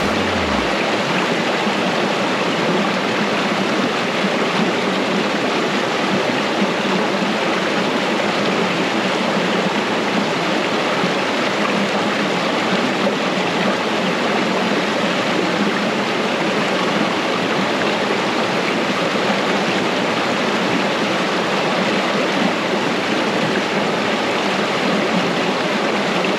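Steady rush of a small mountain stream running over rocks, an even, continuous water noise.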